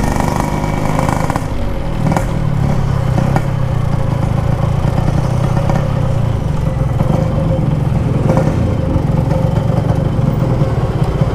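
Yamaha RX-King 135cc two-stroke single running on an aftermarket exhaust at low, fairly steady revs, with a few light clatters.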